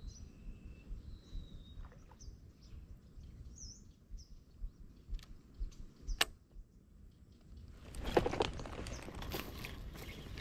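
Small birds chirping faintly in short high calls, a single sharp click about six seconds in, then a stretch of rustling from about eight seconds in.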